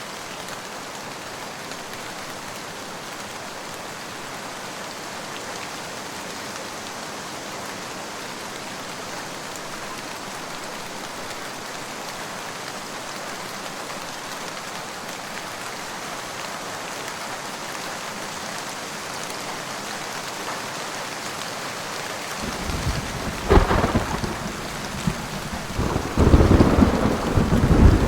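Steady rain falling, with thunder breaking in near the end: a low rumble builds, a sharp crack comes, then a louder, longer rumble rolls on.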